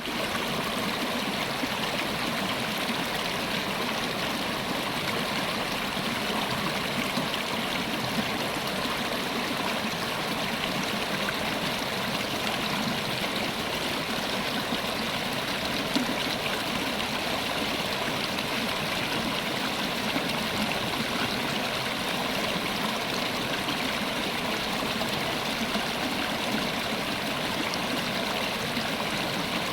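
River water flowing and splashing steadily, an even rushing sound with no change throughout.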